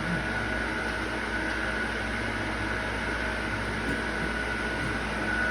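A small motor running steadily, with a constant high whine over a low hum.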